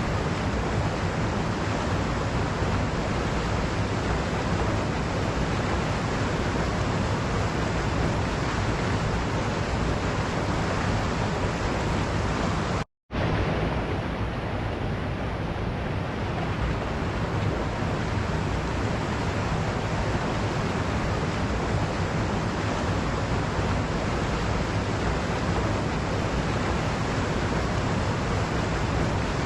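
Waterfall rushing: a steady, even roar of falling water. It cuts out completely for a split second near the middle, then resumes.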